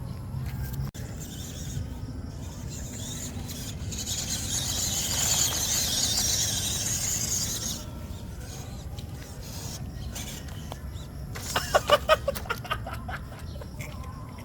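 Small RC off-road truck's electric motor and gears running, with a hissy whirr that swells for a few seconds midway. Near the end, a quick run of about eight high squeals.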